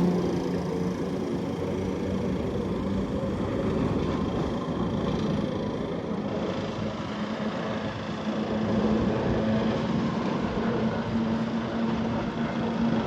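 Heritage tram running, a steady rumble with a low hum that rises slightly in pitch near the end.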